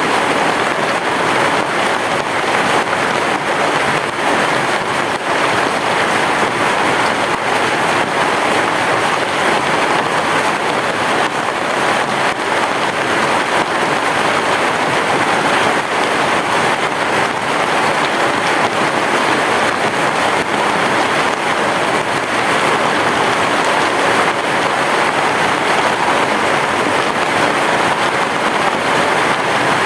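Heavy rain falling steadily: a dense, even hiss of countless drops that neither swells nor fades.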